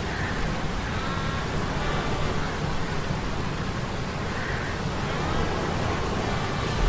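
Ambient sound mix of metal gears humming under sea-storm effects: a steady low rumble beneath a dense wash of rain and surf noise. Faint high tones come and go a few times.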